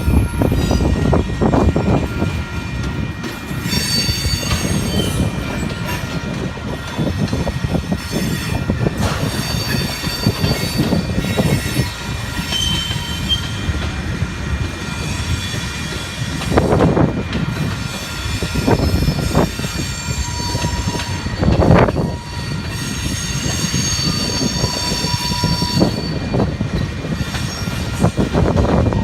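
Freight cars of a mixed freight train rolling past, with a steady rumble of wheels on rail, thin high-pitched wheel squeal coming and going, and a few heavy clunks in the second half.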